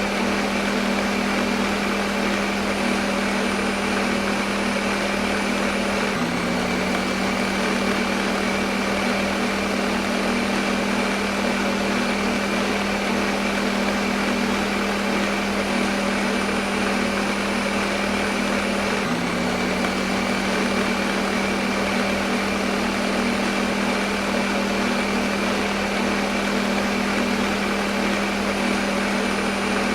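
Electric kitchen blender motor running continuously at a steady speed: a steady hum with a whirring hiss over it. The hum abruptly steps slightly lower in pitch twice.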